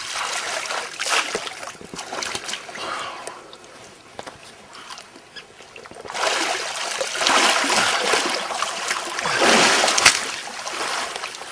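Shallow water splashing and sloshing as mud and tussocks are stirred up by someone searching for lampreys. It comes in two spells, the second louder, with a quieter lull between.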